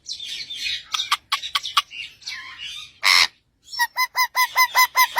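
Parrot chattering and squawking, with one loud harsh squawk about three seconds in, followed by a quick run of about eight short, evenly repeated calls.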